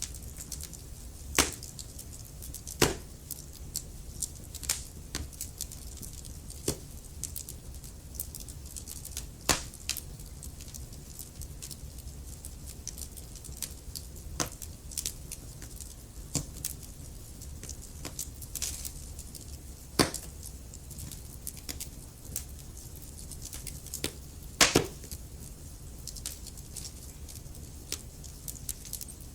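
Wood fire crackling in a fireplace: irregular sharp pops and snaps over a steady low rumble of the flames, with a few louder pops, the strongest about 20 seconds in and a double pop near the end.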